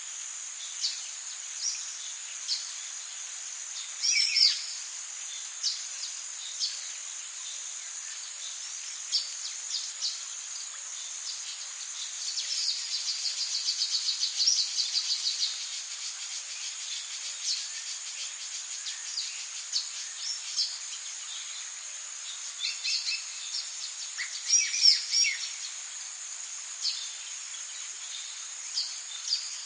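Tropical rainforest ambience: a steady high insect drone with bird chirps scattered throughout, a fast pulsing trill in the middle, and louder calls that fall in pitch about four seconds in and again near the end.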